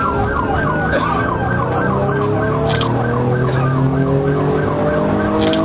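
Police car sirens in a fast yelp, warbling up and down several times a second, with slower steady-rising siren or engine tones underneath, during a pursuit.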